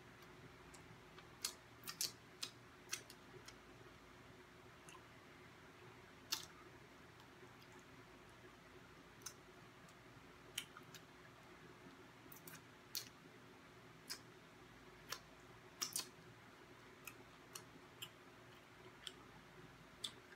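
Close-up eating of crispy fried chicken wings: sparse, irregular sharp clicks and crackles of chewing and mouth noises, over a faint steady hum.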